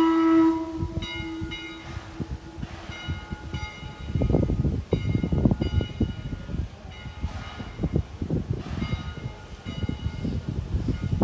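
A train horn blast cuts off in the first second while a train's bell rings steadily, about two strokes a second. From about four seconds in, the rumble and clatter of the passing train's wheels joins the bell.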